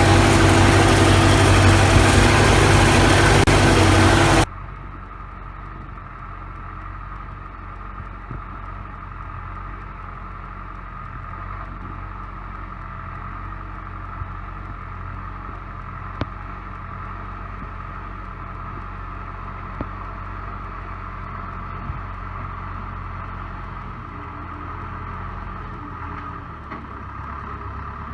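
CASE 580B backhoe's four-cylinder diesel engine running loud and steady. About four seconds in it cuts abruptly to a much quieter, steady engine hum with a few faint ticks.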